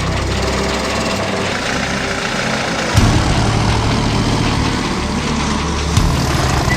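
Heavy truck engine running with a steady low drone, from a trial truck in an off-road truck competition. The sound changes abruptly about three seconds in and jumps again near six seconds, as if from one engine shot to the next.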